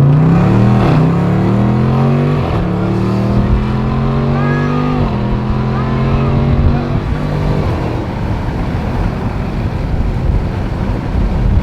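Car engine accelerating hard through the gears: its pitch climbs, drops at a shift about two and a half seconds in, climbs again, then holds and eases off about seven seconds in, leaving a steady rumble.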